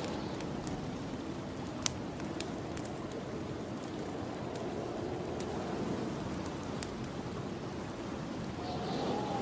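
Snowstorm wind blowing steadily in swelling gusts, with a faint whistle rising near the end, over a wood fire in a fireplace crackling with scattered sharp pops.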